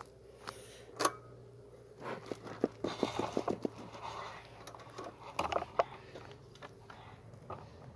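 Wooden beehive frames and hive parts being handled: scattered clicks and knocks, with a quick run of ticks from about two to four seconds in. A faint steady low hum lies under them.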